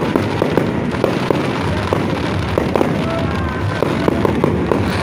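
Aerial firework shells bursting overhead in a continuous barrage: a run of bangs and crackles, about two or three a second, over a steady din.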